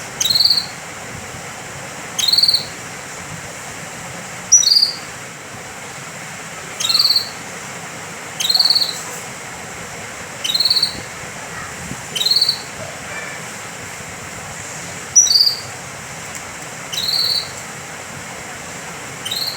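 Domestic canary giving a short, high call about every two seconds, ten times in all. Each call sweeps sharply upward into a brief held note, over a steady faint hiss.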